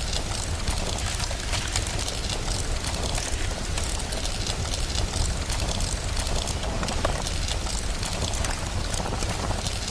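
Steady rain with a constant low rumble underneath and many small, scattered crackling ticks.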